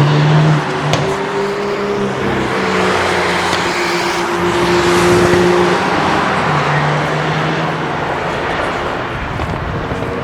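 Cars on a racetrack running hard past the trackside, engine notes dropping in pitch as they change gear at the start, then holding and climbing again as they pull away, with a couple of sharp exhaust pops.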